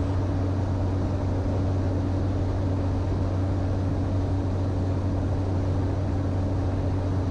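Single-turboprop engine of a Cessna 208 Caravan droning steadily in flight: a constant low hum with a fainter steady tone above it, unchanging throughout.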